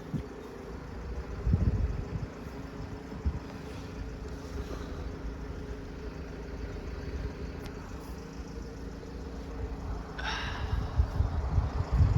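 A road vehicle's engine idling steadily, with gusts of wind buffeting the microphone. About ten seconds in there is a brief high-pitched sound.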